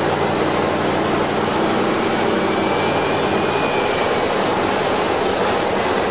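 Twin-turbocharged Steve Morris Racing race engine running on an engine dyno: a loud, steady roar with even engine tones underneath.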